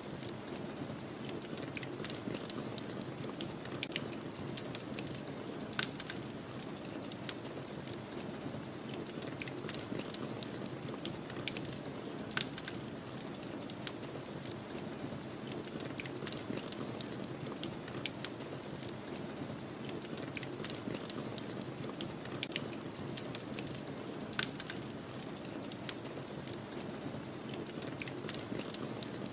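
Wood fire crackling, with frequent sharp irregular pops and snaps, over a steady low rushing of snowstorm wind.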